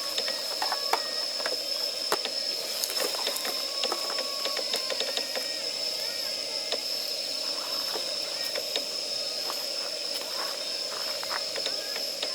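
Wood fire of damp firewood crackling, with many irregular sharp pops and snaps over a steady high-pitched whine.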